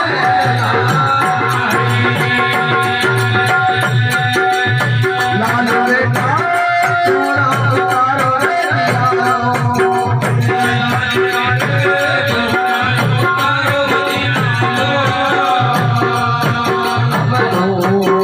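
Live Rajasthani folk devotional music (a bhajan): a melody with held notes over a steady hand-drum beat, with a fast, even jingling of rattle-like percussion.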